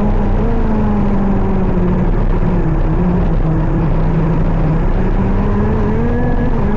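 KZ 125 shifter kart's single-cylinder two-stroke engine running under way: its note sinks slowly for about four seconds, then climbs again as it picks up revs near the end.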